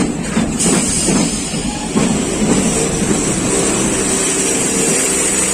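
Passenger train running along the track, a steady rumble and rush of wheels on rail with a few rail-joint clacks near the start.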